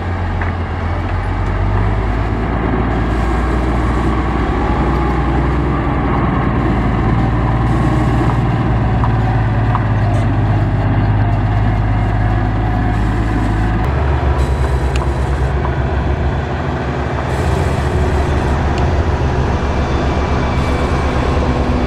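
Heavy diesel construction machinery running at a steady working engine speed. The low drone changes abruptly about fourteen seconds in.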